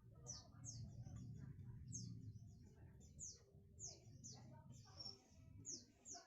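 A small bird chirping: a run of short, high notes, each sweeping downward, repeated about every half second, faint over a steady low hum.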